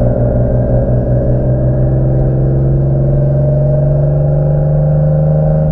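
Infiniti G-series VQ V6 engine running under steady load while the car drives, its pitch slowly rising.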